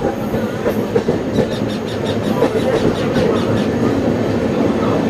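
Passenger train running, heard from inside a moving carriage: a steady rumble of wheels on the rails, with a quick run of sharp clicks in the middle.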